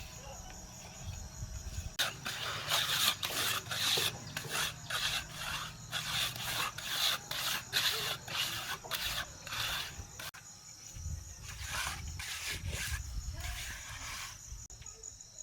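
Repeated rasping scrapes of a hand tool, about two to three strokes a second, starting about two seconds in and thinning out after about ten seconds, with crickets chirping steadily.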